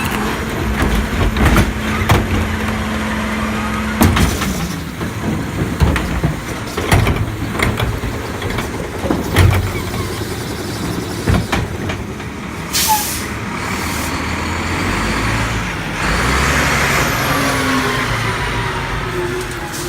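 Diesel garbage truck (Mack LEU with Heil body) running, with a steady low hum and a held tone that stops about four seconds in, then a series of sharp clanks and knocks. About thirteen seconds in comes a short, sharp air hiss from the air brakes, and near the end a louder, longer rush of engine and air noise.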